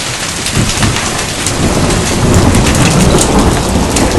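Dime- to nickel-size hailstones pelting down in a heavy downpour: a loud, steady hiss packed with countless small sharp impacts over a low rumble.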